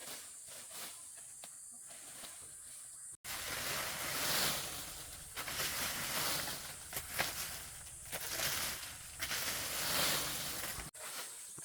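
Outdoor ambience with insects buzzing steadily. About three seconds in, a hard cut brings a louder stretch of rustling noise that swells and fades, with a few sharp knocks. It cuts off suddenly near the end, back to the insects.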